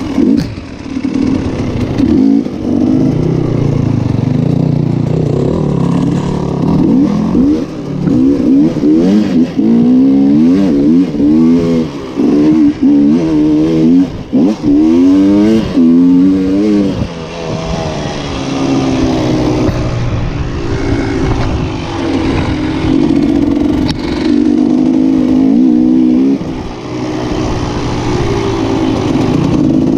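Motocross bike engines revving hard, their pitch climbing and dropping again and again with throttle and gear changes; in the middle stretch several rev climbs come in quick succession and overlap, and the later part settles into a steadier engine drone.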